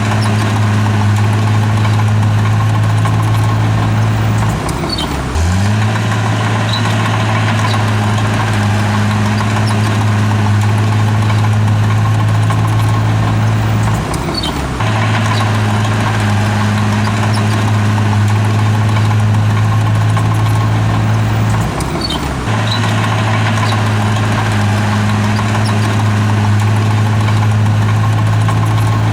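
Heavy diesel engine of earthmoving machinery running steadily with a low drone. Its pitch dips briefly and recovers three times, about eight seconds apart.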